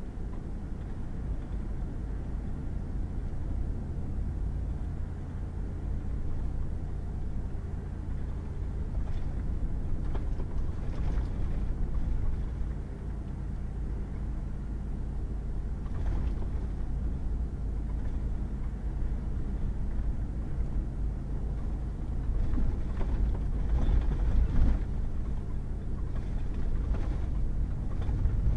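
Pickup truck driving on a wet, muddy gravel road: steady low engine and tyre rumble, with occasional short knocks and rattles over the rough surface, loudest a few seconds before the end.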